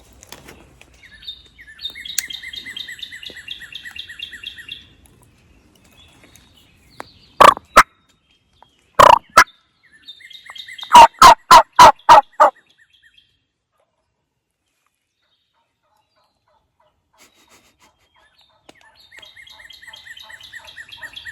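Wild turkey hen yelping close by: two loud yelps, two more, then a run of about six, at the peak of loudness. Songbirds trill high in the background before and after.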